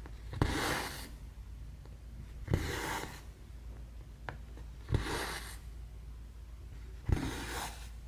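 Needle and thread being pulled through 11-count stamped cross-stitch fabric, four stitches about every two and a half seconds: each a sharp pop as the needle goes through, then a short rasp of thread drawn through the cloth.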